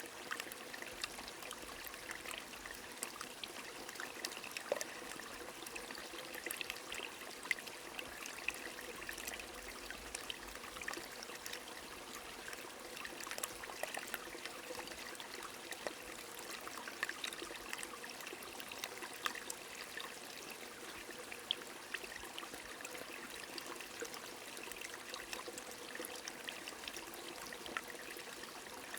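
Small stream trickling steadily, with rain falling: a constant water rush dotted all through with short sharp drip and splash ticks.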